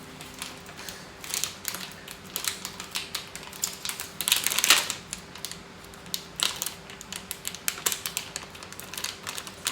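Plastic food packaging being handled and opened, with irregular crinkles and sharp clicks and a louder rustle about halfway through.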